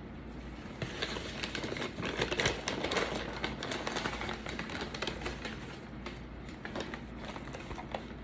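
Paper food wrapping crinkling and rustling as it is handled, with many small quick clicks. It starts about a second in and is loudest around two to three seconds, then dies down near six seconds.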